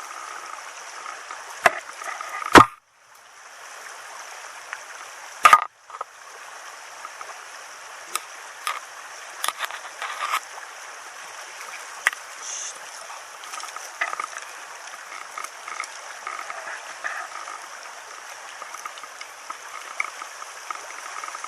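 Small stream flowing steadily, broken by a few sharp knocks: a light one under two seconds in, the loudest about two and a half seconds in and another about five and a half seconds in, the sound cutting out briefly after the two bigger ones. Scattered small clicks follow.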